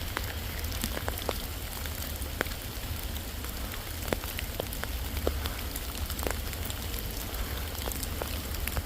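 Steady rain falling in forest, with scattered individual drops ticking close by, over a low rumble.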